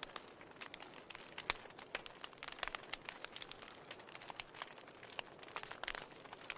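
Wood fire burning in a fireplace: a soft steady hiss with frequent irregular crackles and pops of burning logs, a few sharper pops standing out about a second and a half in and near the end.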